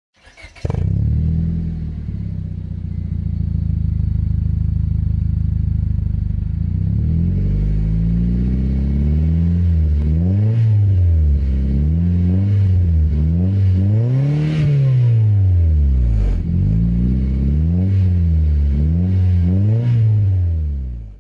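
Honda Civic 1.7-litre four-cylinder engine through a DC Sports cat-back exhaust: it fires up with a brief flare, settles to a steady idle, then is blipped in several free revs from about eight seconds in, the pitch rising and falling each time.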